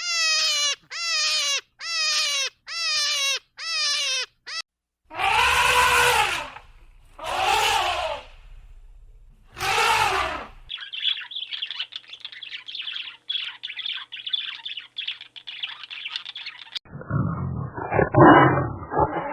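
Several different animal calls cut one after another. First comes a run of short calls, each falling in pitch. Then three long, loud calls, then high chirping like birds, and near the end a low, rough roar.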